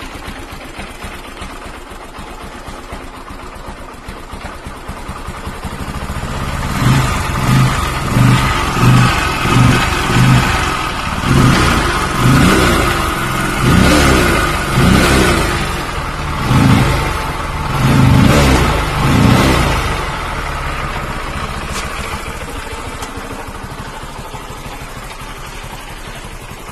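Bajaj Pulsar 135 LS four-valve single-cylinder engine idling, then revved in a series of about a dozen quick throttle blips before settling back to idle. The engine's valve clearance and timing chain have just been adjusted, and the valve noise is much reduced.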